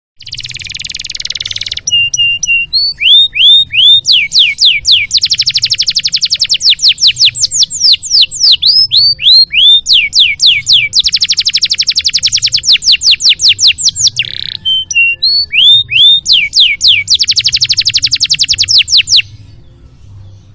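Domestic canary singing a long, loud song: a short buzzy opening, then runs of quick falling whistled notes alternating with dense rapid trills, stopping shortly before the end. A faint steady low hum lies underneath.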